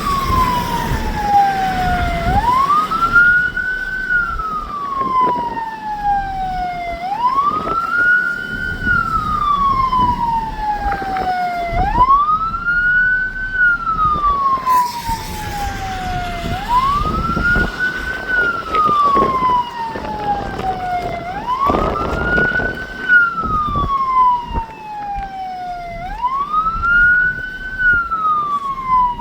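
Emergency vehicle siren in wail mode: it rises quickly, then falls slowly, repeating about every five seconds, over a low rushing noise.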